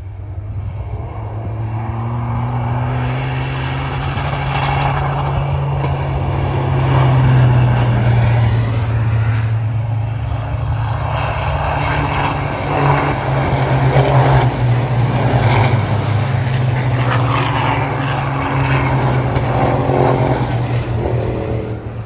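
Racing trucks' big turbocharged diesel engines running flat out as they pass. The sound builds over the first seconds, holds loud with several swells, and fades near the end.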